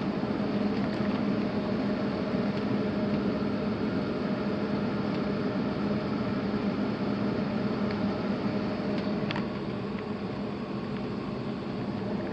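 HVAC air handler blower running: a steady rush of air with a steady low hum.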